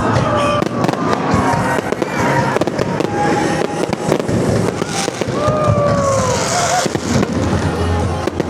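Fireworks going off in quick succession, a run of bangs and crackles, with music playing underneath.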